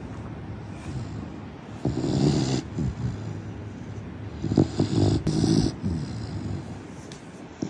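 Labrador retriever snoring in its sleep: two louder snores, about three seconds apart, with quieter breathing between them.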